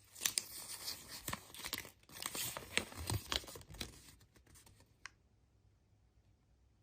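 A surprise egg's wrapper being torn open and crinkled by hand, crackling with many sharp clicks, dying away about four and a half seconds in, with one last click shortly after.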